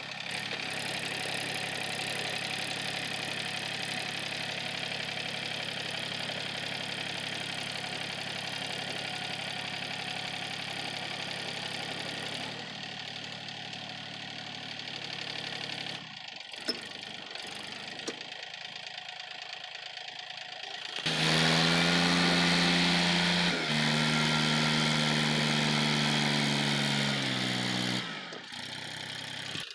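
Tractor engine running steadily, then running louder and higher in pitch from about two-thirds of the way through.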